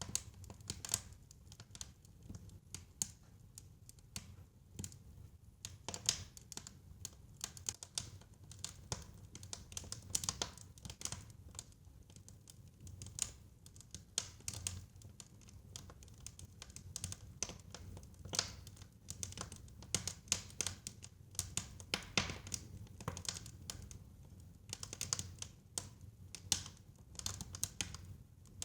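Fireplace fire crackling, with dense irregular pops and snaps over a low steady rumble.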